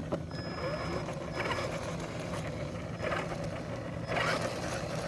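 Traxxas Rustler RC car's brushed electric motor and drivetrain whirring in three short bursts, with a thin high whine in between. The owner is listening for a strange noise that he fears is the differential gears but thinks is the loose-fitting centre driveshaft.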